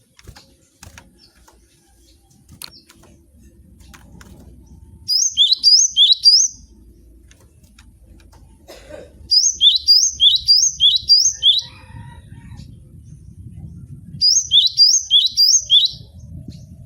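Cinereous tit (gelatik batu) singing: three bursts of quick, repeated high whistled notes, each note falling sharply in pitch. The middle burst is the longest, at about six notes.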